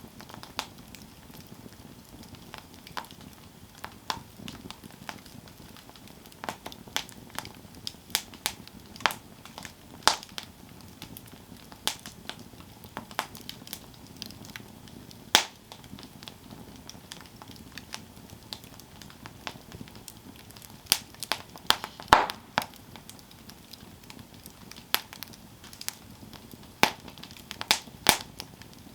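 Campfire burning, the wood crackling with irregular sharp pops over a soft, steady rush of flame. A few louder pops stand out about halfway through and again about two-thirds of the way through.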